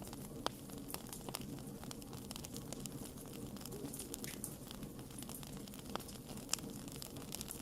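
Wood fire crackling: irregular sharp pops and snaps over a steady low hiss of burning, with a few louder pops about half a second in and near the end.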